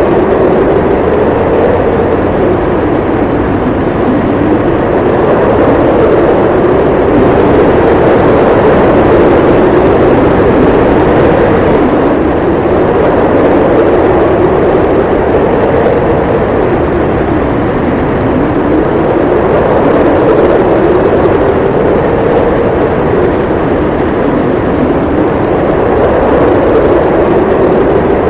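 Howling snowstorm wind, a loud steady rush whose pitch slowly rises and falls every few seconds.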